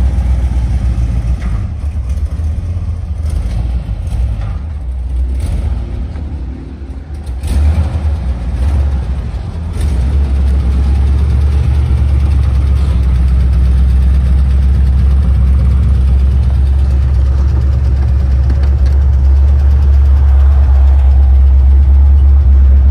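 Car engine running with a deep, steady low rumble, a little uneven early on and louder and steadier from about ten seconds in.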